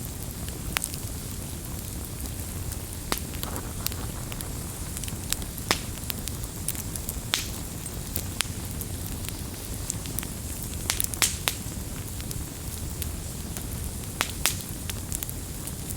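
Wood campfire burning with a steady low rumble and hiss, and irregular sharp crackles and pops scattered through, with a few quick clusters of pops.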